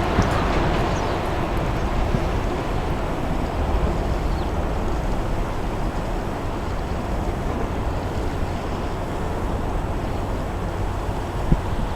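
Steady wind rushing over the microphone, with a low rumble underneath.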